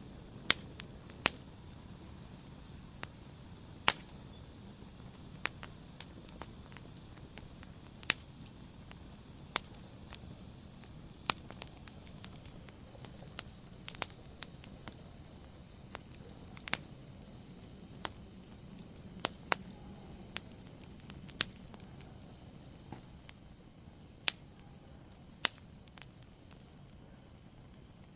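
Wood fire burning in a fireplace: a low steady hiss with sharp, irregular crackles and pops from the burning logs, some of them loud.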